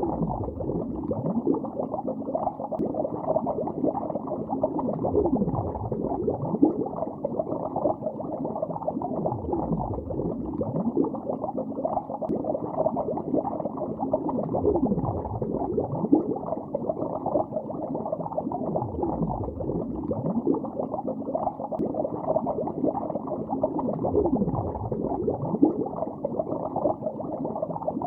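Underwater bubbling: a steady stream of bubbles burbling and gurgling, heard as a dense low burble full of short pitch sweeps.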